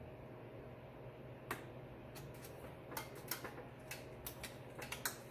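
Irregular sharp clicks and ticks of a screwdriver working at a factory quick-connect fitting to release it, over a steady low hum. The clicks begin about a second and a half in and come more often after the third second.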